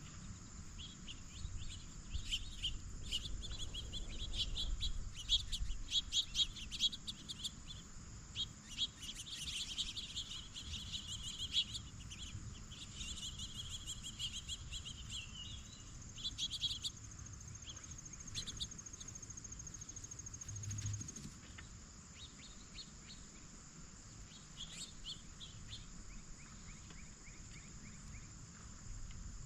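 Birds chirping in quick runs of short calls, thinning out after about seventeen seconds, over a steady high buzz of insects with a brief pulsing insect trill.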